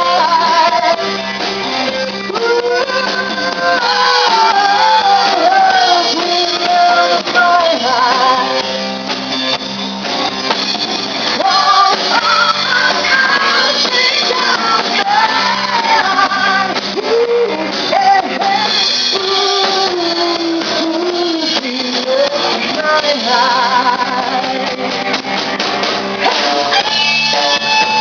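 Rock band music: a singer over strummed guitars and a steady beat.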